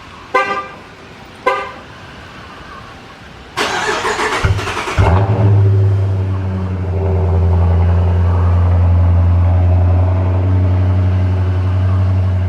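Two short horn-like chirps, then a starter cranks for about a second and a half before a 5.7 Hemi V8 catches on a cold start. It settles into a steady, deep idle through Flowmaster Super 10 mufflers with the resonators deleted.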